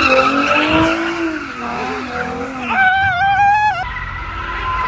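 Car tyres squealing loudly with a wavering pitch under a revving engine, as in a burnout or drift. A second, sharper squeal comes about three seconds in, and a steadier squeal follows.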